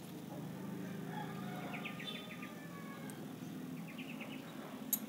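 A bird chirping in two quick runs of about six short notes, over a low steady hum, with one sharp click near the end.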